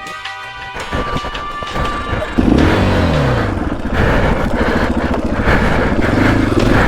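Background music for about the first two seconds. Then a dirt bike engine cuts in loud about two and a half seconds in: it revs, drops in pitch, and keeps running with pulsing throttle.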